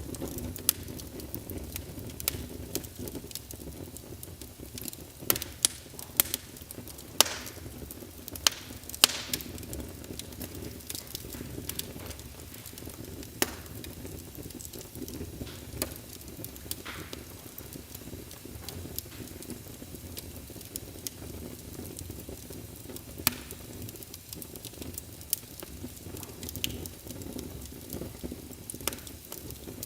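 Wood fire burning in a fireplace: a steady low rustle of flames with irregular sharp crackles and pops, a few of them much louder than the rest.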